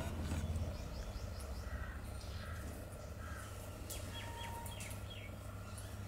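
Bulbuls giving short chirps and calls, with a quick run of sharp falling chirps about four seconds in, over a steady low background rumble.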